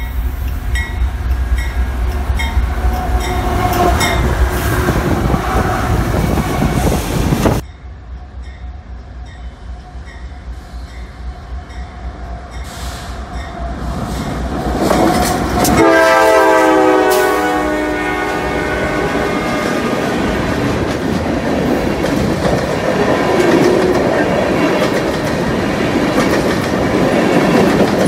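CSX freight train: a diesel locomotive running as it approaches, then after an abrupt cut a few seconds of quieter rumble, then the locomotive's horn sounding for about two seconds halfway through. Tank cars then roll past with steady wheel noise and clickety-clack.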